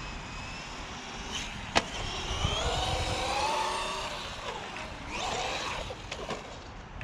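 Brushless electric motor of a 1/12-scale RC car whining up and down in pitch as it speeds up and slows, over a steady rush of tyre and ground noise. A sharp click comes about two seconds in.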